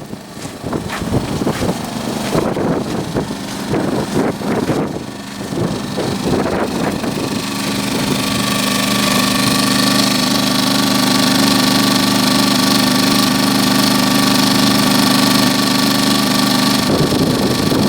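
Champion 2000 W inverter generator's small single-cylinder four-stroke engine running steadily at low speed in econo mode. Irregular noises cover the first several seconds; then the engine's steady hum grows louder and holds level.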